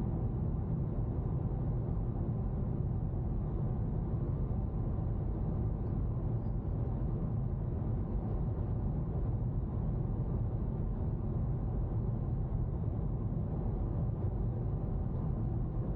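Steady low rumble of a car on the move, heard from inside the cabin: road and engine noise at an even level.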